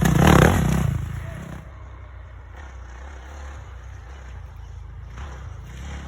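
Motocross dirt bike engine running loud close by, then fading within about a second and a half to a steady distant drone of engines that swells slightly near the end.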